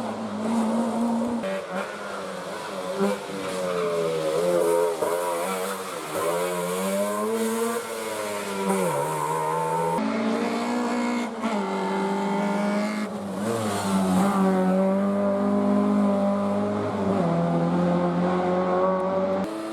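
Rally car engines at full throttle on a stage, pitch rising and falling as the drivers work the throttle and change gear. The sound changes abruptly several times, where shots of different cars are cut together.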